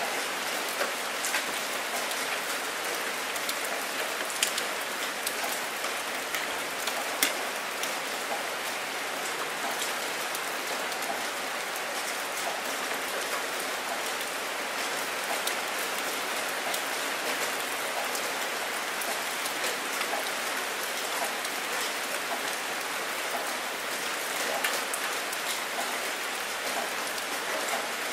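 Steady rain falling on open water, a dense even hiss of drops hitting the surface. Now and then a sharper single splash stands out, most plainly about four and seven seconds in.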